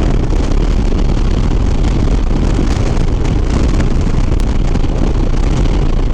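Steady wind rush over a helmet microphone with the low drone of a Harley-Davidson Sport Glide's Milwaukee-Eight V-twin cruising at highway speed.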